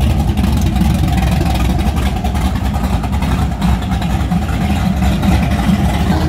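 Loud, steady engine rumble from drag-racing trucks running at the strip.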